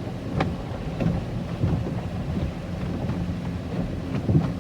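Automatic car wash working over a car, heard from inside the cabin: a steady rush of water spray drumming on the body, with a low rumble and a few sharp taps, the clearest about half a second in.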